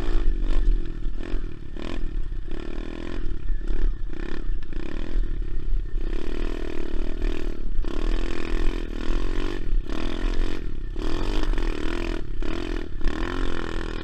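SSR 125 pit bike's single-cylinder four-stroke engine being ridden hard, revving up and falling back again and again as the throttle is opened and shut.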